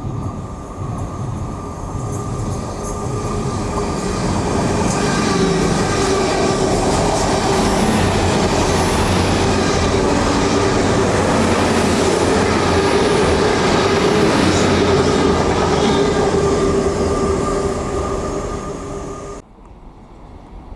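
A train running through the station, loud and steady with a rumble and a high steady whine, building up over the first few seconds. The sound cuts off suddenly near the end.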